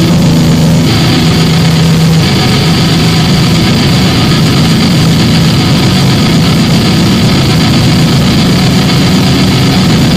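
Loud, dense distorted noise drone with a steady low hum underneath, a harsh-noise passage within a noise-metal recording.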